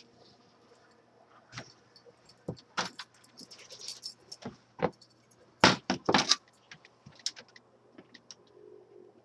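Scattered clicks, clinks and knocks, loudest in a quick cluster about six seconds in.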